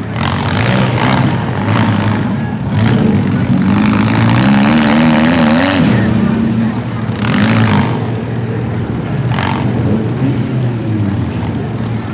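Demolition-derby compact cars' engines running and revving, the pitch rising and falling, with several loud crunching crashes as the cars hit, the largest about seven and nine seconds in.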